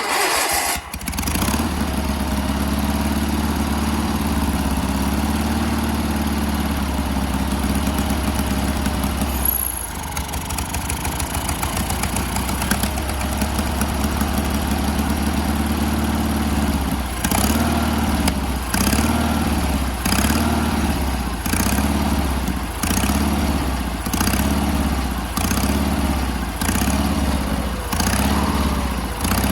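Sears garden tractor engine starting and running. Later it begins to surge, speeding up and dropping back about once a second in a steady rhythm. The hunting is the sign of a carburetor still being adjusted.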